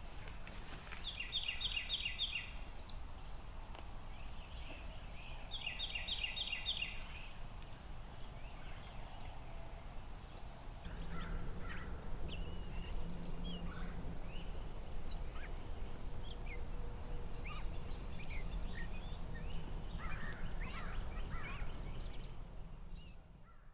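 Birds calling: two quick trilled phrases in the first seven seconds, then scattered short chirps, over a steady high-pitched hum and a low rumble. The sound fades out at the very end.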